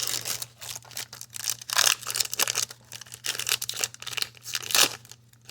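Plastic wrapper of a Donruss basketball card pack crinkling and tearing in the hands, a run of irregular crackling rustles, loudest about two seconds in and again near the end.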